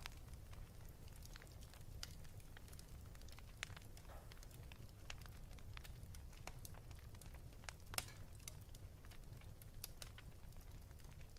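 Wood fire crackling in a fireplace: scattered small pops and snaps over a low, steady rumble, with one sharper pop about two-thirds of the way through.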